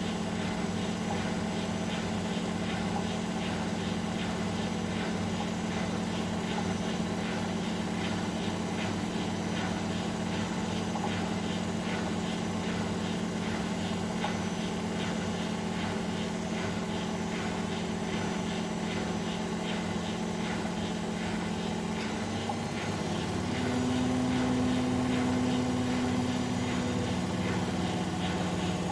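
Bosch Maxx WFL 248Y washing machine running, its drive motor humming steadily; about 23 seconds in, the hum steps up in pitch and gets a little louder as the drum speeds up.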